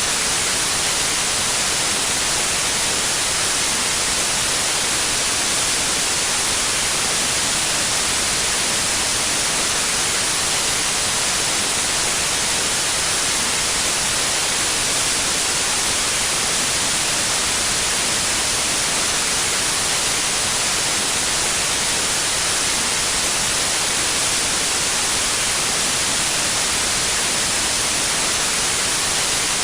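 Steady white noise: an even, unchanging hiss weighted toward the high frequencies.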